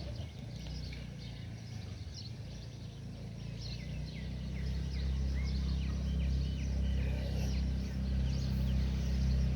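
Several small birds chirping with quick, short, falling notes, over a low rumble that grows louder about halfway through.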